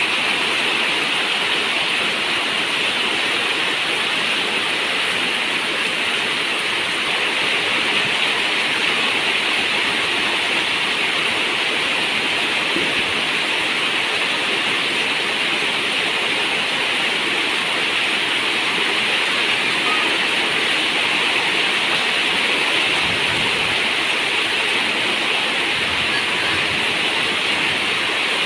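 Steady heavy rain with running water: an even, unbroken rushing hiss.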